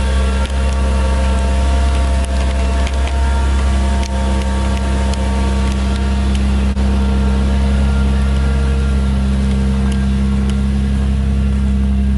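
An engine running steadily at a constant speed, a low, even drone with no change in pitch.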